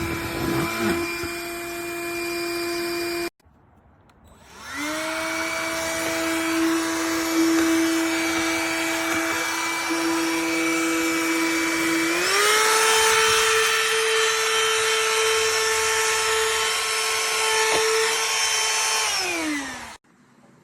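Cordless handheld vacuum motor whining steadily, cut off abruptly about three seconds in. After a pause it spins up again and runs, steps up to a higher pitch about halfway through, then winds down and stops near the end.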